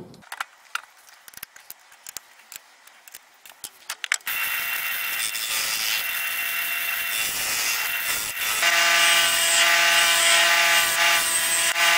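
A few small clicks and taps, then, about four seconds in, a wood lathe with a turning tool cutting wet sycamore: a steady scraping hiss that grows louder a little after halfway, with a steady whine over it.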